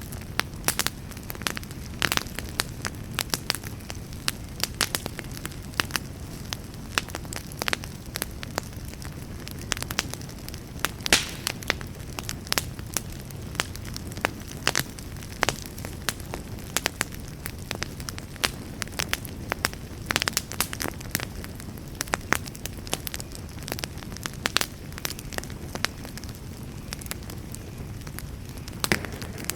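Wood fire burning in a fireplace, with a steady low rumble of the flames and frequent sharp crackles and pops at irregular intervals.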